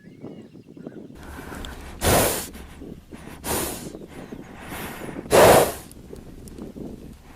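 A horse snorting three times, each a short, noisy blast through the nostrils; the first and last are the loudest. A low background rumble runs underneath.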